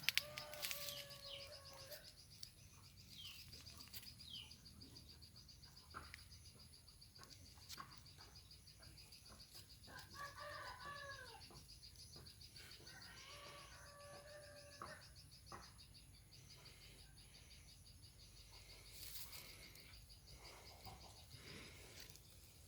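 A rooster crows three times, faintly: once at the start, and twice more about halfway through in close succession. A fast, steady insect trill runs underneath, with a few short bird chirps.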